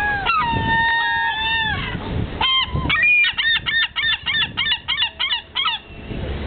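Large birds calling loudly: a few long drawn-out calls, then a fast run of short repeated calls, about four a second, that stops near the end.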